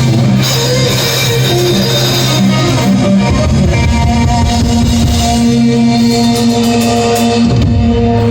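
Live rock band playing loud, with electric guitar and drum kit, recorded on a mobile phone.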